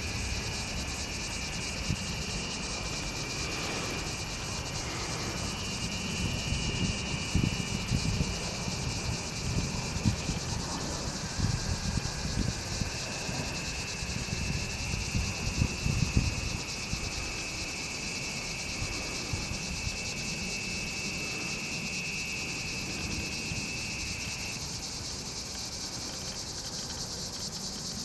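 Steady outdoor chorus of insects: a continuous high buzz with a shriller, steady band of song on top that stops near the end. Irregular low rumbling runs under it through the first half.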